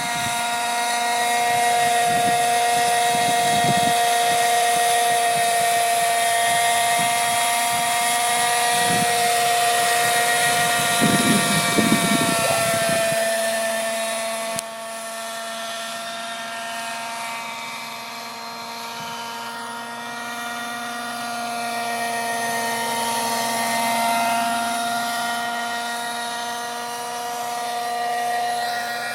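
Nitro-powered radio-controlled scale helicopter running, a steady high-pitched engine and rotor whine that wavers slightly in pitch. Wind buffets the microphone through the first half, and the whole sound drops in level suddenly about halfway through.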